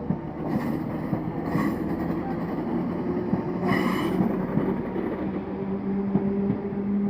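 Passenger multiple-unit train moving slowly at the platform: a steady low hum from its engine or motors, with two brief squeals from the wheels, about a second and a half and about four seconds in. The hum grows stronger near the end.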